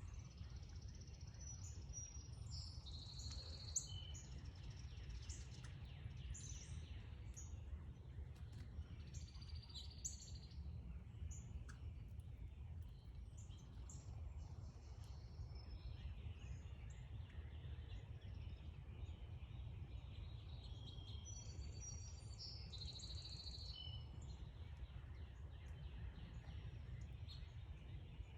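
Several songbirds chirping and calling in short scattered notes, with a few buzzy trills, over a steady low background rumble.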